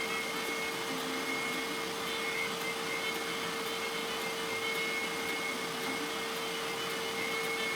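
Electric woodworking machine running steadily: a constant motor hum with a thin steady whine above it.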